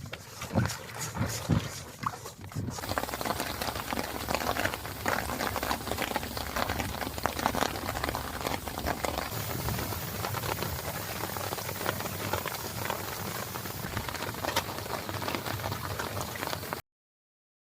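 Heavy rain falling: scattered drops and knocks at first, thickening about three seconds in into a dense, steady patter that cuts off suddenly near the end.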